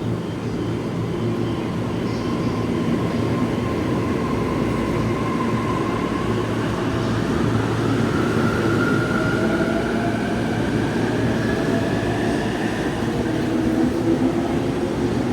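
Electric commuter train running at the platform, with a steady rumble under its motor whine. About halfway through, the whine rises in pitch as the train picks up speed.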